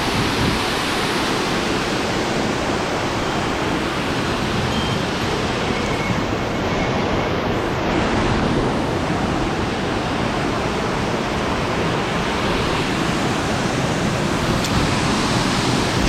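Steady rush of mountain-stream water running over rocks, an even hiss with no break.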